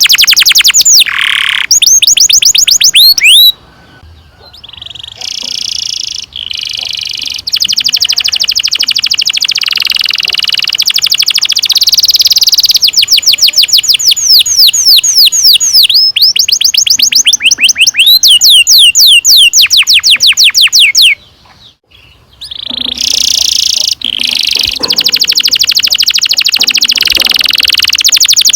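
Domestic canary singing long rolled trills: fast runs of repeated sweeping notes that change from phrase to phrase, with two brief pauses between phrases.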